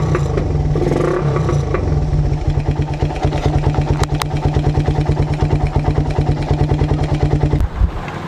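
Suzuki Raider 150 single-cylinder four-stroke engine running on a 28 mm flat-slide carburetor. It is revved briefly at the start, then settles to a steady, fast putter at idle and falters near the end. The owner calls the carb misfiring: it needs a smaller pilot jet than the oversized one fitted.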